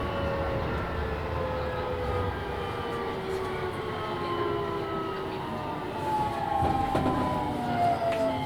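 Keisei 3000 series electric train's Toyo IGBT VVVF inverter and traction motors whining, the pitch of the whine falling steadily as the train slows, over the steady rumble of wheels on rail heard from inside the car.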